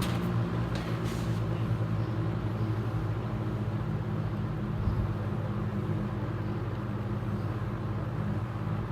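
Superlectric Model 2083 box fan running steadily: a low hum with the whoosh of its plastic blades. The blades are out of balance, warped from decades of attic heat, so the fan shakes a lot as it runs.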